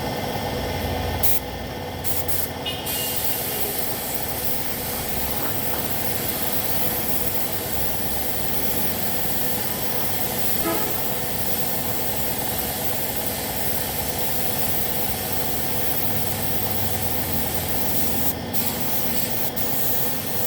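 Compressed-air paint spray gun hissing steadily as paint is sprayed onto motorcycle body panels. The spray stops briefly near the start and a couple of times near the end.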